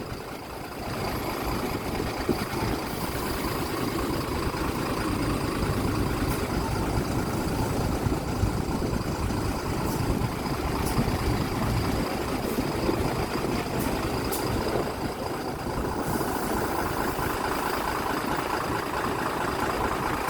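Mitsubishi Fuso Aerostar city bus diesel engine idling steadily.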